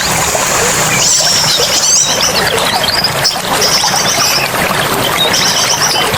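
Songbirds chirping in short, fast, high-pitched chattering phrases about once a second, over the steady rush of running water.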